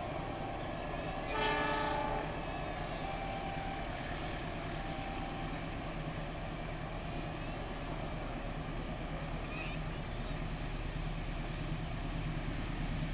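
A distant locomotive horn sounds one short blast about a second and a half in. After it comes a steady low rumble of the approaching train, which grows slightly louder near the end.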